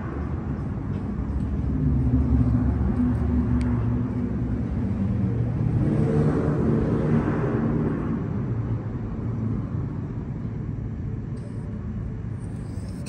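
A motor vehicle's engine running with a steady hum. It grows louder about two seconds in and eases off slowly toward the end.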